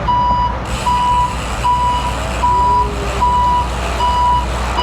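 Backup alarm on construction equipment beeping steadily, a single-pitched beep about every 0.8 seconds, over a steady low rumble.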